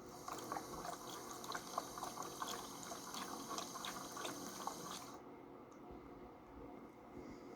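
Water sloshing and splashing inside a 3D-printed Hajdu Energomat washing machine as it washes, with many small drips and splashes; it stops suddenly about five seconds in.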